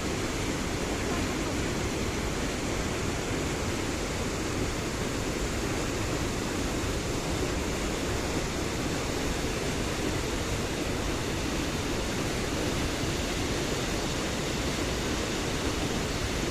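Steady, unbroken rush of a waterfall and fast mountain stream in a gorge.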